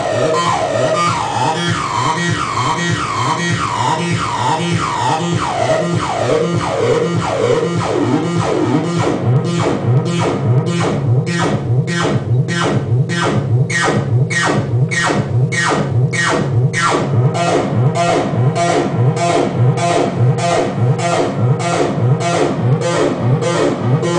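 Roland TB-303 bass synthesizer playing a repeating acid techno line, with falling pitch glides over the first eight seconds. From about nine seconds in, a crisp noisy hit joins about twice a second.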